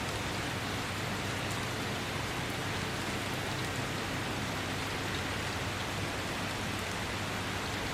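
Steady rain falling, an even hiss with faint ticks of drops.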